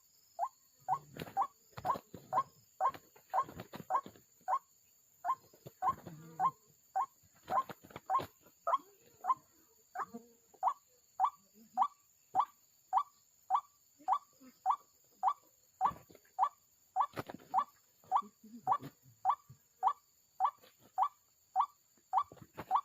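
White-breasted waterhen (ruak-ruak) calls: a short rising note repeated evenly, about two a second. Between the notes come scattered rustles and snaps of vegetation.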